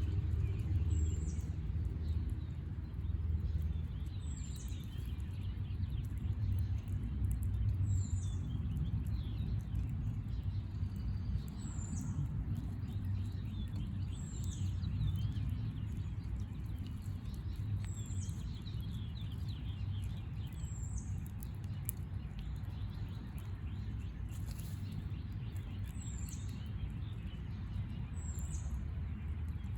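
A bird calling over and over, a short high note every few seconds, over a low steady rumble.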